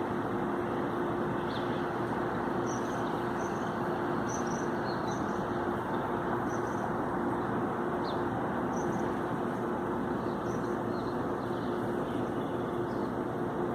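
Steady road-traffic noise with a constant low hum, over which faint short high chirps of a flock of birds come and go every second or so.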